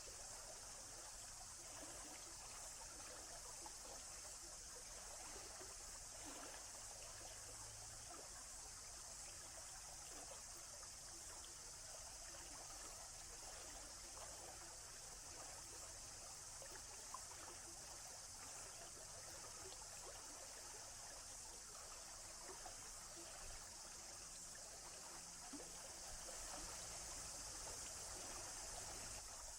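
Faint, steady running water of a forest stream, trickling evenly without a break.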